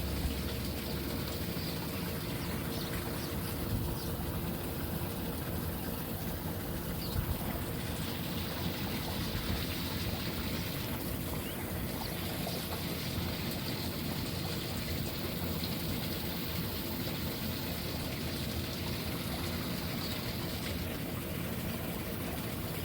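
Pool being vacuumed: a steady wash and trickle of moving water with an even, low pump hum under it.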